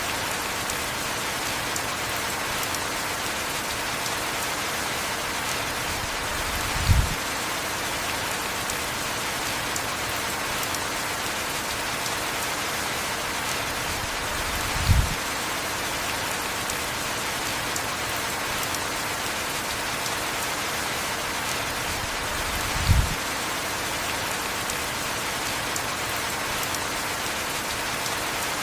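Steady heavy rain falling, with a short low thump three times, about eight seconds apart.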